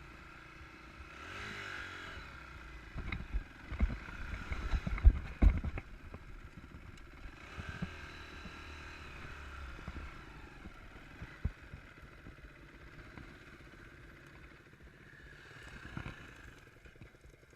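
Enduro motorcycle engine revving up and easing off twice, with a run of loud knocks and clatter about three to six seconds in.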